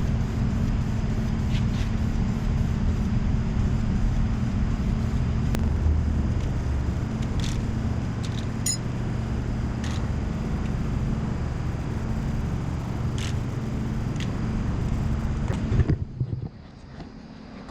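A steady mechanical hum from a running motor or machine, with a few light clicks over it, cutting off sharply about two seconds before the end.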